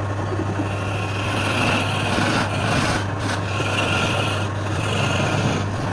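Wood lathe running with a steady motor hum while the spinning wood is worked with a tool, a scraping noise that drops out briefly a few times.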